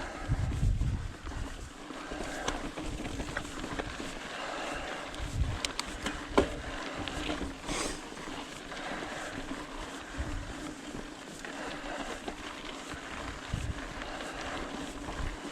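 Ibis Ripley mountain bike rolling over bumpy, rough rock trail: steady tyre and bike noise with scattered sharp knocks as it hits rock edges. Wind buffets the microphone now and then.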